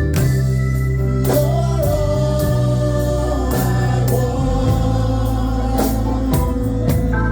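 Gospel worship music: singing over organ, bass and drums.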